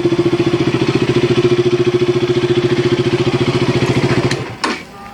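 KTM RC 200's single-cylinder 199.5 cc engine idling with an even, steady pulse, then shut off a little over four seconds in.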